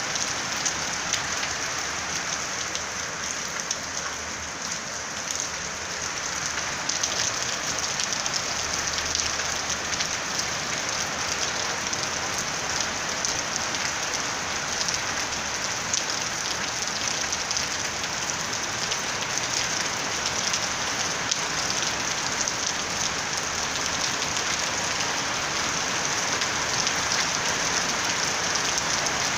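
Steady rain falling on a rooftop: a dense, even hiss with many fine drop ticks.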